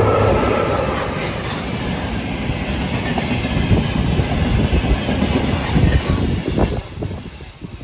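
Freight train passing close by: a VR electric locomotive goes past first, then a string of tank wagons rumbling with a clickety-clack of wheels over rail joints. The sound thins out near the end as the last wagon goes by.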